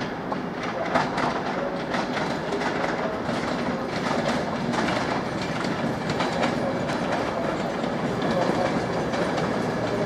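InterCity 225 train of Mark 4 coaches, led by a driving van trailer, passing at close range, with its wheels clattering over rail joints and points in a repeated clickety-clack over a steady rumble.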